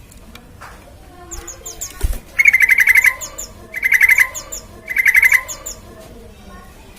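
Yellow-vented bulbul (trucukan) singing: short chirps and gliding notes, then three loud, rapid trilled bursts about a second apart.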